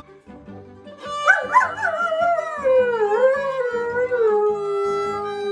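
A dog howling one long howl that starts about a second in, falls in pitch and then holds steady, over background music.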